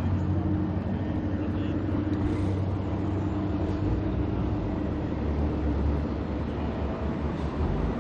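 Heavy rally race trucks' diesel engines running, a steady low drone.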